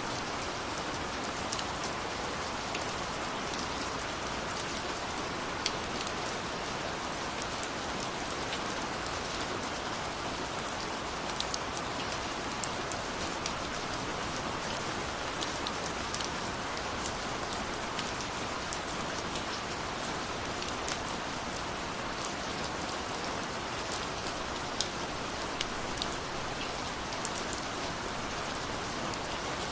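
Steady rain falling, an even hiss with scattered sharper drop ticks on a hard surface.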